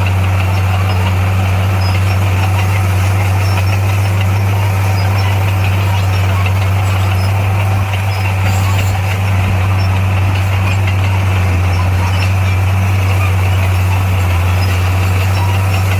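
Heavy earthmoving machine's diesel engine running at a steady, unchanging speed: a constant low hum.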